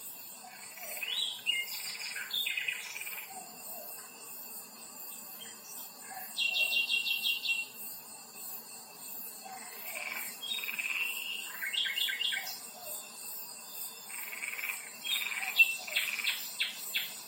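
Songbirds singing in short phrases every few seconds, one of them a fast even trill, over a steady high chirring of insects.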